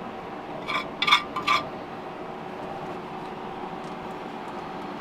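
Dishes clinking three times in quick succession, about a second in, over a steady background hum.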